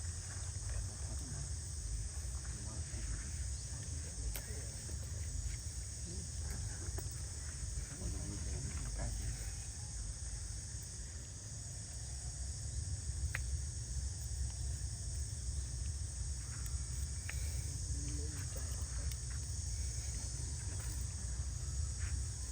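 Steady high-pitched chorus of insects over a constant low rumble, with a few faint clicks.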